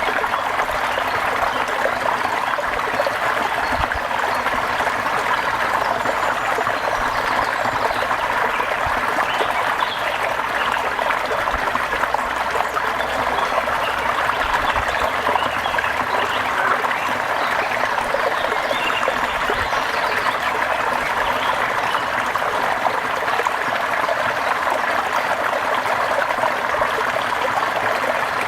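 Steady rain: an even, unbroken wash of water sound with no pauses or changes.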